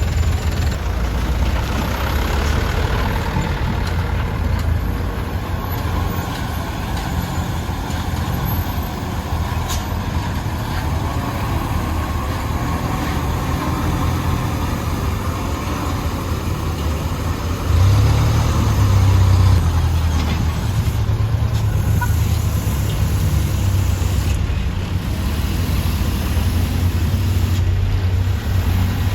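Engine of a heavily loaded Mitsubishi Canter truck running steadily with a deep low rumble, growing louder about two-thirds of the way through.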